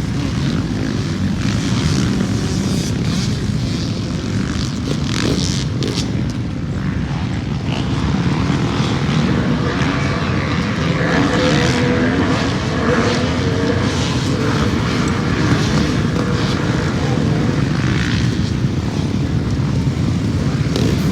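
A pack of motocross bikes running together, many engines revving and shifting so that the pitch keeps rising and falling. It gets a little louder about eight seconds in.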